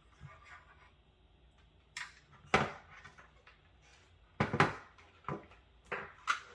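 A series of sharp, irregular knocks and clatters, about six in all, the loudest a little past halfway: hard parts of a desktop PC case being handled and set down during disassembly.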